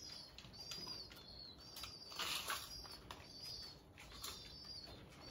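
Birds calling: a thin, high note repeated about once a second, with a short flutter of noise a little over two seconds in.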